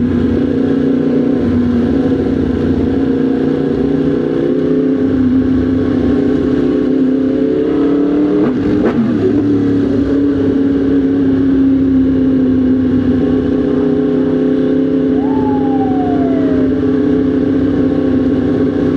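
Motorcycle engine running steadily while riding in traffic, with a brief dip and rise in engine pitch about halfway through.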